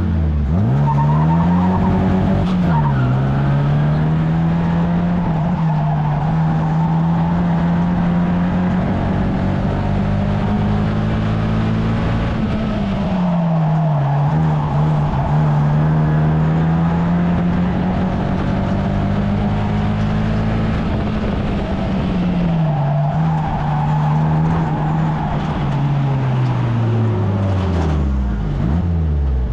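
1300cc stock car engine at racing speed, pitch dropping as the throttle comes off for the bends and climbing again down the straights, several times over.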